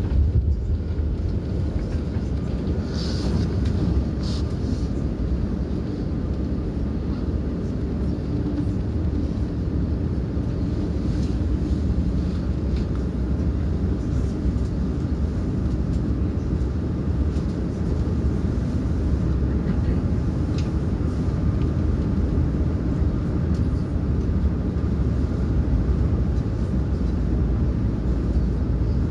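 Steady low rumble of a passenger train running at speed, heard from inside the carriage, with a few faint clicks, first about three to four seconds in.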